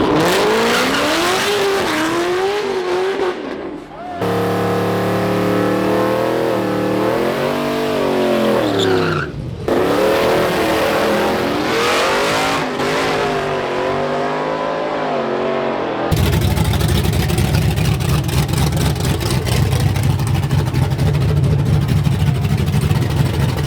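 Race car engines revving, their pitch rising and falling, in short segments that cut abruptly. About two-thirds of the way through, a loud, steady low engine rumble takes over.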